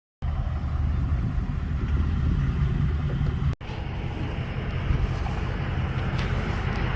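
Car engine running at a steady low idle, a low rumble with a brief cut-out about three and a half seconds in.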